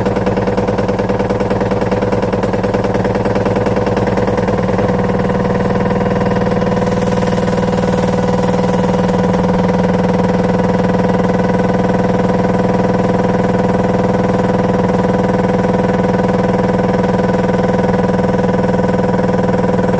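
Washing machine running with a steady motor hum. A fast, even rattle rides on it for the first five seconds or so, then stops, leaving the hum alone.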